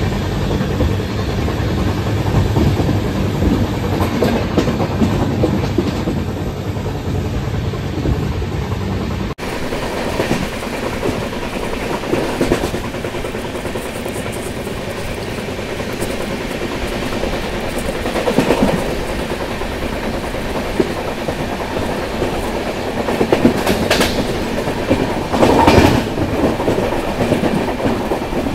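LHB passenger coaches of an express train running, heard from aboard: a steady rumble of wheels on rail with a few sharp clicks from the rail joints late on.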